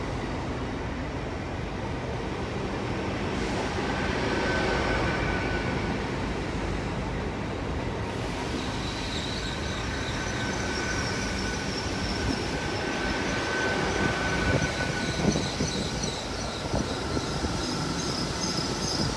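GWR Class 802 bi-mode train moving through the station, a steady running rumble with thin high-pitched wheel squeal that sets in about four seconds in and grows stronger and higher from about nine seconds on.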